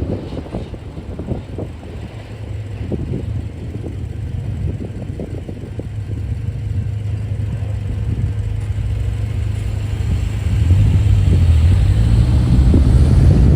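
Union Pacific intermodal freight train rolling past: a steady low rumble with scattered clicks of wheels over the rails, growing louder about ten seconds in.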